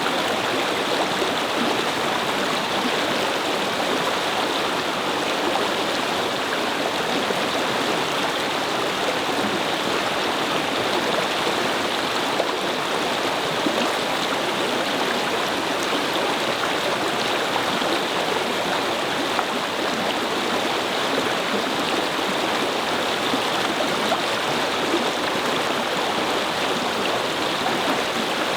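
A shallow brook flowing and babbling over stones, a steady even rush of running water.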